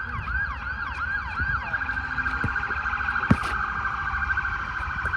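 Electronic siren cycling in a fast yelp, about three swoops a second, that switches to a faster warble about two seconds in. A single sharp click sounds just past the middle.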